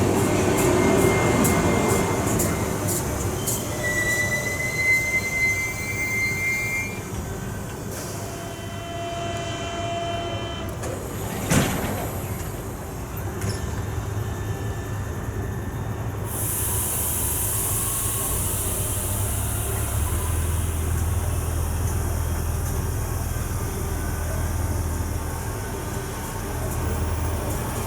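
Electric train moving through the station, with wheels and brakes squealing in thin high tones over the first several seconds and a sharp clack about eleven seconds in. From about sixteen seconds a long hiss of air and a steady low hum take over.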